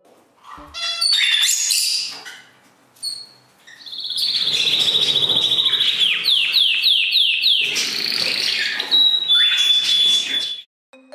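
Pet budgie chirping a few times, then from about four seconds in a long run of busy high warbling chatter, with a quick series of five falling notes in the middle and a held high note near the end before it cuts off.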